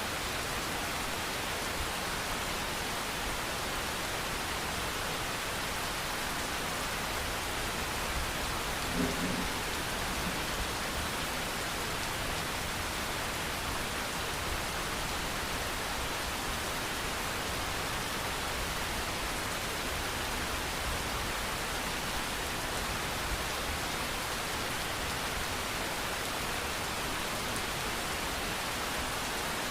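Steady rain, an even hiss with no break, with one short low knock about nine seconds in.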